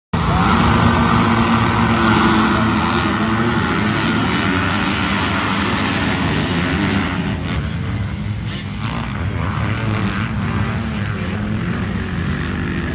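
Motocross dirt bike engines running steadily, loudest in the first few seconds and easing slightly toward the end.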